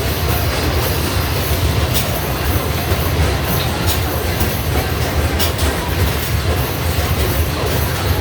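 Arcade basketball machine in play: a steady rumble of basketballs rolling down the return ramp, with a few sharp knocks of balls striking the backboard or rim about two, four and five and a half seconds in.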